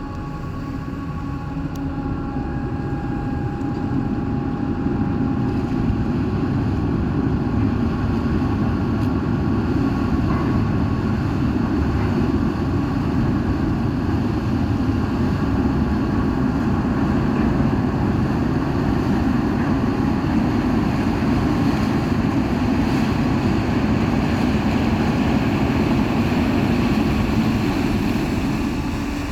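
Ferry's engines running under way as it departs, a steady deep rumble that builds over the first few seconds and then holds.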